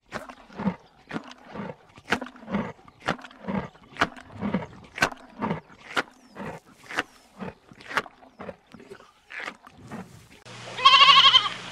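An animal calling in a long run of evenly repeated pulses, about two a second. About ten seconds in the background changes abruptly and a wavering bleat follows near the end.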